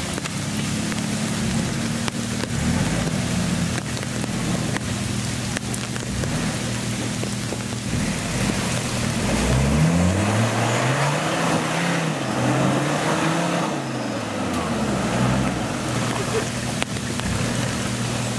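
Off-road 4x4 engines running under load in mud, with a steady engine note that is revved up and down several times in the second half. A constant hiss of rain runs underneath.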